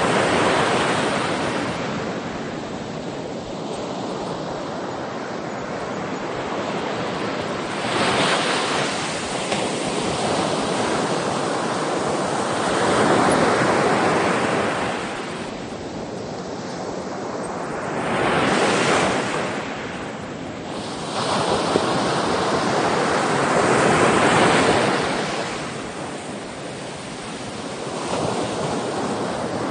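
Sea waves breaking and washing ashore, surging louder every five or six seconds, with some wind noise on the microphone.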